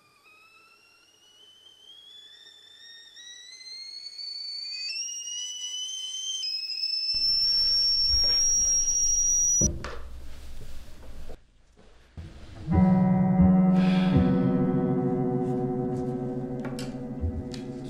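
Film score: a high, thin tone rises steadily in pitch and grows louder for about ten seconds, then cuts off abruptly into a low rumbling noise. About thirteen seconds in, a sustained piano chord comes in and slowly fades.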